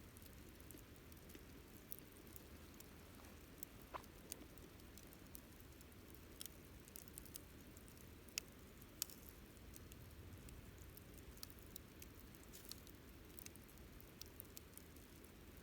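Wood campfire crackling faintly: irregular sharp pops and snaps over a low steady hiss, with the two strongest pops about eight and nine seconds in.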